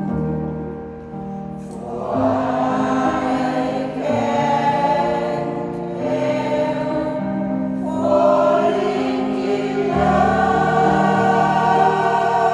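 Senior choir singing in harmony, holding chords, with a new phrase entering about every two seconds.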